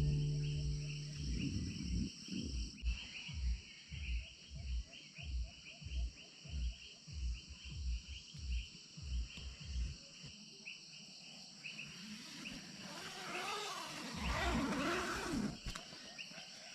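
Insects chirring steadily and high-pitched in the background, with regular low thuds about twice a second for the first ten seconds; near the end a louder, fuller sound swells and fades. Background music fades out at the start.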